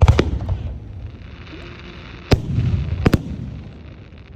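Aerial fireworks shells bursting: three loud bangs, one at the start, one at about two seconds in and one at about three seconds in, each followed by a low echoing rumble.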